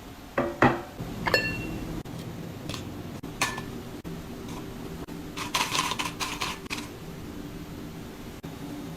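Small dishes and utensils clinking and knocking as they are handled: a few sharp taps in the first second and a half, one of them ringing, another ringing tap about three and a half seconds in, then a brief run of rattling clatter around the middle.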